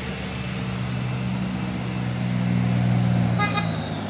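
Truck engine running hard under load, a steady drone that grows louder for about three seconds and then eases near the end. A brief high, pulsing beep sounds about three and a half seconds in.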